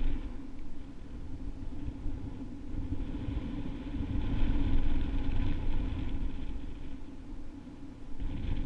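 Strong wind buffeting the microphone: a steady low rumble with a hiss that swells and eases, loudest a few seconds in.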